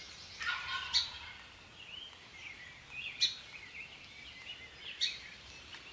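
A wild turkey gobbler gobbles once, briefly, about half a second in, with small songbirds chirping around it.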